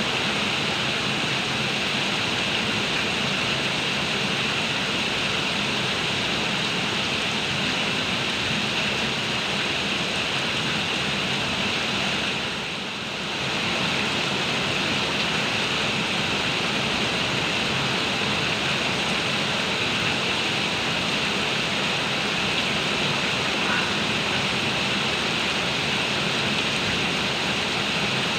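Heavy rain pouring down steadily in a dense, even hiss, dipping briefly about halfway through.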